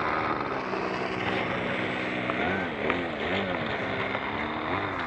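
Petrol engine and propeller of a single-propeller radio-controlled model airplane in flight, a steady drone whose pitch swings up and down a few times in the middle and again near the end.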